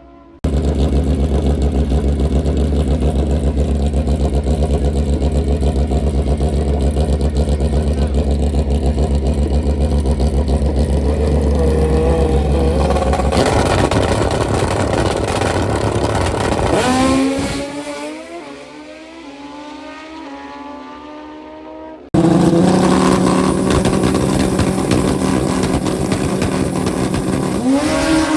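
Drag-racing motorcycle engines at full throttle. A steady, loud run lasts about thirteen seconds, then the pitch sweeps as the engine pulls away and fades. A second loud run cuts in suddenly near the end.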